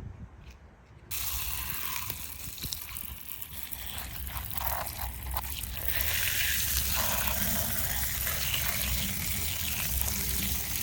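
A spray of water starts suddenly about a second in and steps up louder about six seconds in, a steady hiss with a low rumble beneath. It is a small model car being washed off, with a few light clicks before the spray starts.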